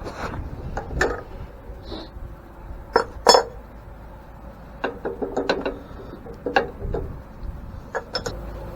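Hand tools clinking and knocking against the metal parts of an antique grain mill during disassembly. Irregular sharp clinks, the loudest pair about three seconds in and a quick run of taps around five to six seconds.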